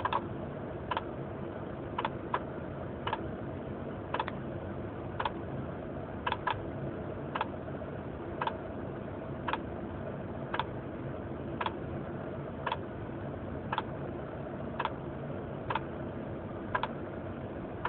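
Unexplained clicking noise from a 1996 Honda Accord LX with a manual gearbox: a sharp click about once a second, sometimes two close together, over a steady low hum.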